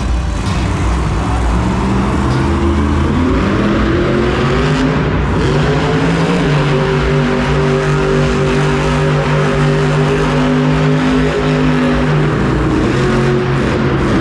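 Monster truck engine revving up and held at high revs, dropping briefly near the end and then revving up again, over a wash of arena noise.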